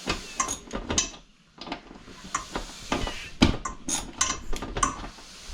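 Irregular metallic clinks and knocks of hand tools and screws against a metal TV wall mount, some of them ringing briefly.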